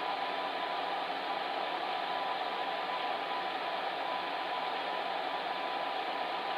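Electric fan heater running steadily: an even rush of blown air with a faint steady hum.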